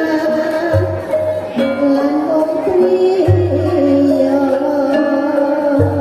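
Javanese traditional ensemble music for a jaranan horse dance, played loud through a sound system. A held melodic line with a singing voice steps between pitches, and three deep booms come about two and a half seconds apart.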